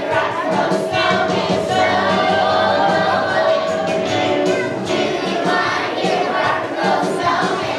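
Choir of young children singing a Christmas song together over musical accompaniment.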